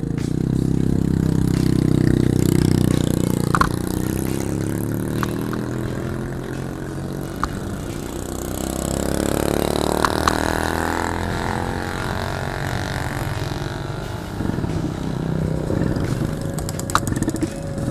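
Yamaha F1ZR two-stroke motorcycle engine running and being revved, its pitch rising and falling in two swells, the louder one near the start and another about halfway through. A few short sharp clicks are heard along the way.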